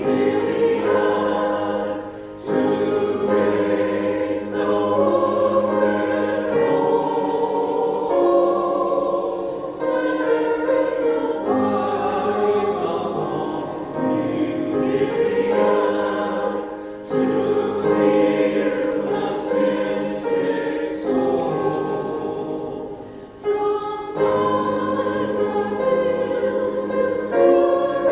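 Choir singing in sustained phrases with short breaks between them.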